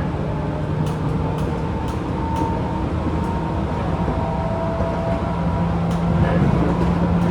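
Interior running sound of a Tobu 10000 series field-chopper-controlled train, heard in a motor car: a steady rumble of motors, gears and wheels on rail with a low hum that grows a little louder near the end. Scattered light clicks from wheels passing over rail joints.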